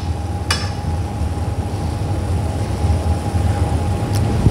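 Steady low rumble of a working restaurant kitchen, with a faint constant hum above it. A spoon gives one light clink against the pan about half a second in.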